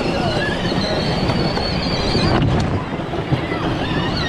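Busy crowd din of many voices, with a long high squeal for about the first two seconds.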